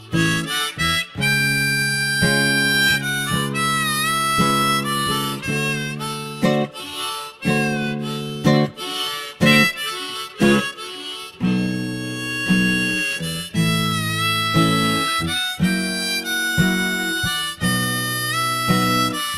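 Blues harmonica solo over acoustic guitar accompaniment, the harmonica notes bending in pitch.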